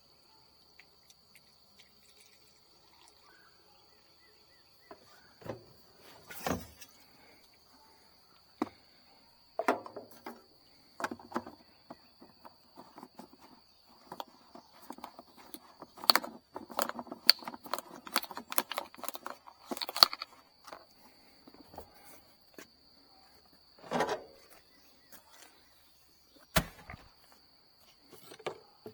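Insects chirring in one steady high tone throughout, with scattered knocks and clattering over it, busiest in the middle stretch and with a few single thumps near the end.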